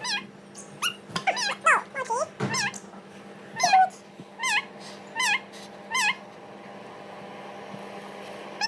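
Short, pitched animal cries with a wavering pitch. Near the middle they repeat as four near-identical calls about three-quarters of a second apart, and they stop for the last couple of seconds.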